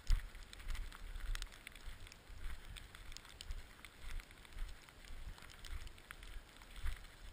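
Skis running over hard snow, with irregular scrapes and clatters, and wind buffeting the microphone in low thumps.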